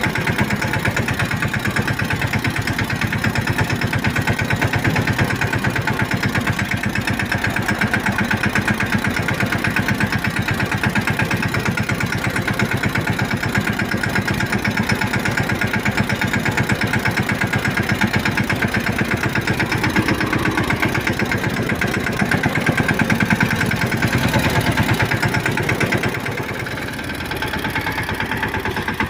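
Tractor engine running with an even, rapid beat, briefly quieter near the end.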